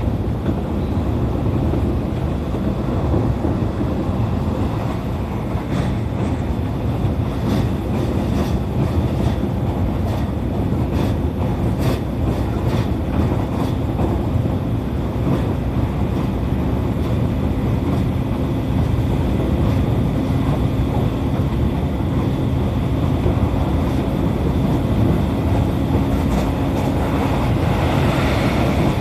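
E531-series electric train running along the line, heard from on board: a steady rumble of wheels on rail, with a run of sharp clacks over rail joints in the middle and a steady low hum in the later part.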